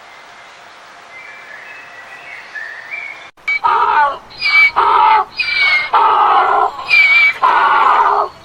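Faint bird chirping, then after an abrupt change about five loud animal calls in quick succession, each lasting roughly half a second to a second.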